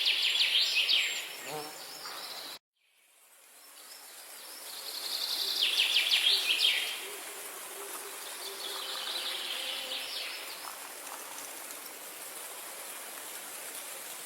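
A songbird singing fast trilled phrases of rapidly repeated notes, three phrases a few seconds apart, over a steady outdoor hiss. About two and a half seconds in, the sound cuts off abruptly and then fades back in.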